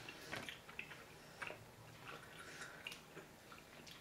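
Faint, scattered wet clicks and squishes of gum being chewed, with light rustling of a paper leaflet being unfolded.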